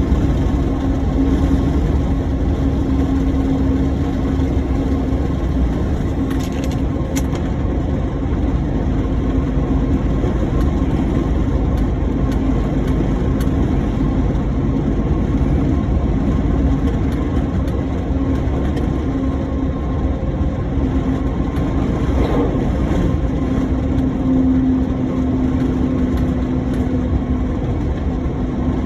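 Heavy truck running on the road: a steady engine drone with a constant hum and low road rumble, unbroken throughout.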